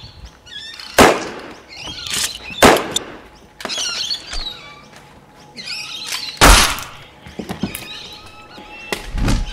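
Staged fist fight: four loud, sharp punch and body-hit thuds, the loudest about six and a half seconds in, with birds chirping in the background.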